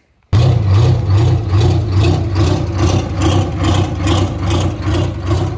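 A vehicle engine idling loudly with a lumpy, even pulse about four times a second, starting abruptly.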